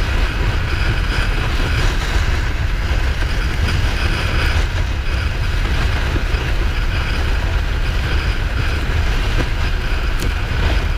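Kawasaki Ninja 400 being ridden at a steady speed. Wind rush on the microphone and road rumble carry over the bike's parallel-twin engine, with no change in pace.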